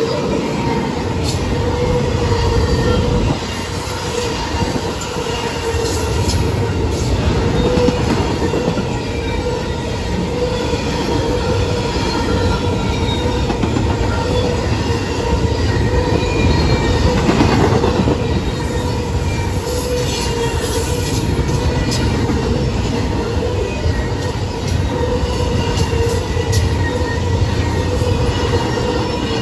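Double-stack intermodal freight train's loaded well cars rolling past: a steady low rumble of steel wheels on rail with a steady whining squeal from the wheels and scattered clicks over the rail joints.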